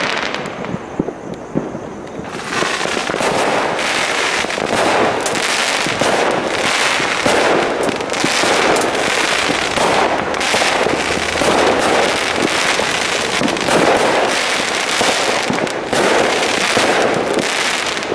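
Many fireworks and firecrackers going off at once, a continuous barrage of overlapping cracks and bangs that thickens about two seconds in.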